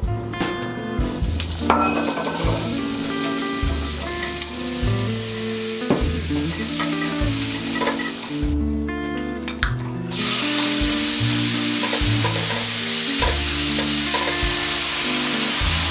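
Oil sizzling as julienned carrots, and after a cut sliced pork, are stir-fried in a nonstick frying pan and turned with chopsticks. The sizzle drops out briefly a little past halfway and comes back louder. Light background music with a bass line runs underneath.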